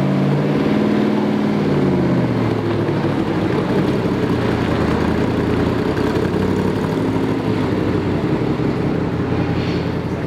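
Car engine running. Its pitch falls over the first couple of seconds as the revs drop, then it runs steadily.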